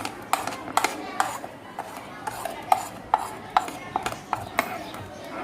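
A spoon clinking against a bowl about twice a second, with scraping in between, as spices and pastes are stirred into raw boneless chicken to marinate it.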